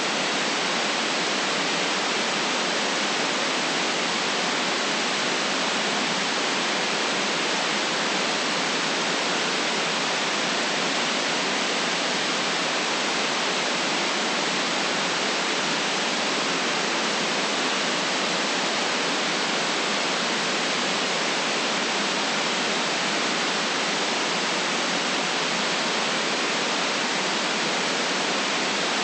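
Steady, unchanging white-noise hiss, spread evenly through the middle and high range with no traffic, voices or other events in it.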